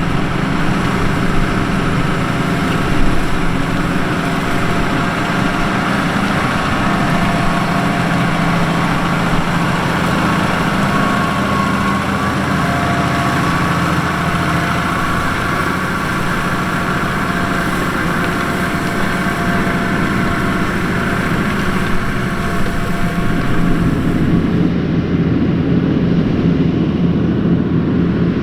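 New Holland T7.245 tractor's six-cylinder 6.7-litre NEF engine running steadily under load while pulling a five-furrow plough. The highest hiss drops off near the end.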